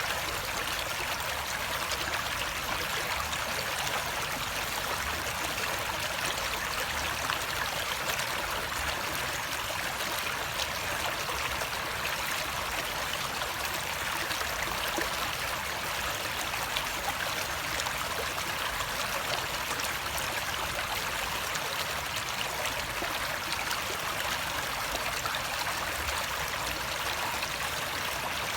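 Water flowing steadily over rocks in a stream, a continuous splashing rush with no change in level.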